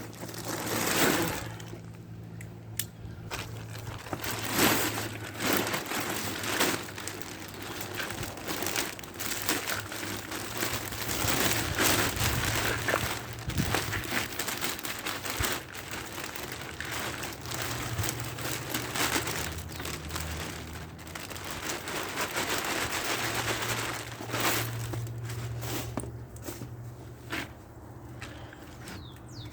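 Bagged wood mulch being emptied, spread and packed down inside a chest freezer: continuous irregular crunching, crackling and plastic-bag crinkling, with a low hum that comes and goes underneath.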